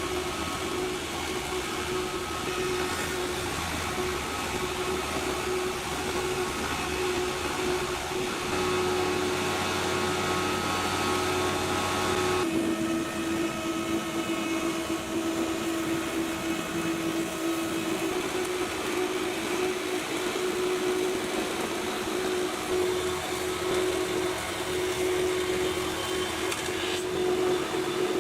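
Four-side planer moulder running with a steady machine hum and a constant tone. Its sound shifts about 8 seconds in, changes again a few seconds later, and shifts once more near the end.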